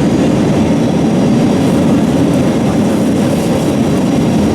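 Steady rumble of engine and airflow noise inside an Airbus A320's passenger cabin, even and unbroken.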